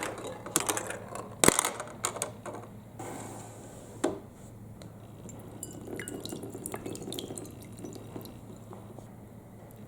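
Marbles clattering and knocking through a plastic block marble run with water running through it. A burst of quick clicks and knocks comes in the first two seconds and one more knock about four seconds in. After that, water trickles and drips with scattered small ticks.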